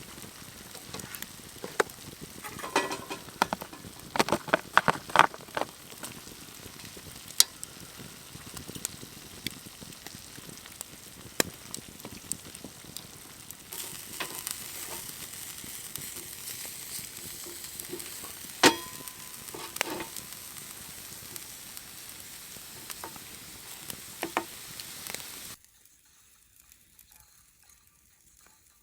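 Food sizzling in a pan over a campfire, with sharp clicks and knocks of a utensil against the pan. The sizzle grows louder about halfway through and stops abruptly a few seconds before the end.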